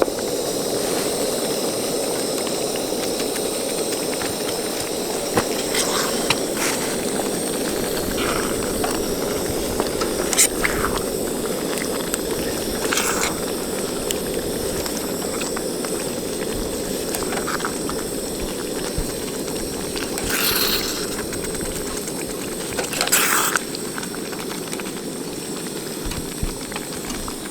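Gas camp stove burner hissing steadily, warming food, with a few short clinks of utensils against cookware.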